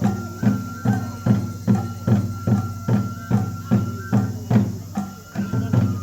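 Japanese festival music accompanying a lion dance: a taiko drum beaten in an even pulse, about two and a half strokes a second, under a bamboo flute holding a long high note that breaks off about four seconds in and comes back a second later.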